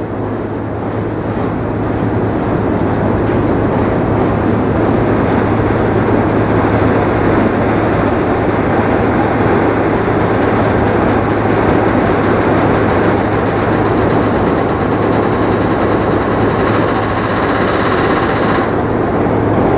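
A subway train crossing the Manhattan Bridge: a loud, steady running noise that builds over the first couple of seconds and holds, its high hiss dropping away near the end.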